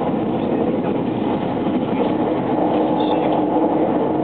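Running noise inside a JR West 683 series 2000-subseries electric train at speed: a steady rumble of wheels on rail, with a steady hum under it that grows a little louder about halfway through.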